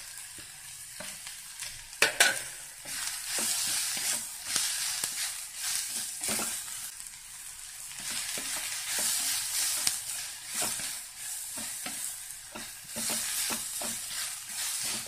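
Sliced shallots and green chillies sizzling in hot coconut oil in a clay pot over high heat, while a spatula stirs them, scraping and knocking against the pot wall. The sharpest knock comes about two seconds in.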